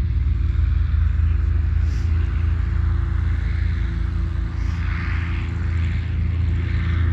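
Small propeller plane's piston engine running steadily with a low, even rumble; the rushing sound swells briefly about five seconds in.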